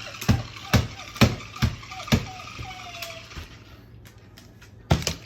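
A hard toy knocking against metal cage bars in a steady rhythm of about two knocks a second, played with by a Moluccan cockatoo. The knocking stops after about two seconds, a short faint whistle-like tone slides down a little, and a sharp burst of knocks comes near the end.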